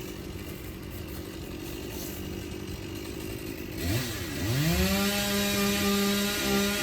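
Gas chainsaw idling, then blipped twice and revved up about four seconds in, holding a steady high pitch at full throttle.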